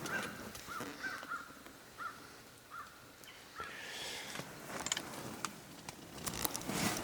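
A bird calling outside in a run of short, repeated, harsh calls through the first half, followed by some rustling and light clicks near the end.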